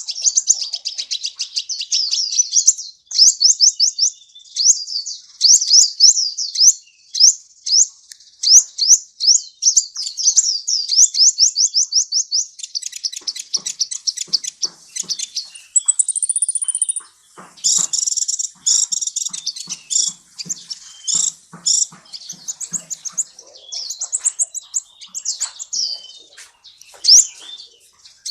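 Kolibri singing: a sunbird, as the name is used in Indonesian bird-keeping. The song is long runs of rapid, high, thin chirping notes, with a brief higher whistle about midway.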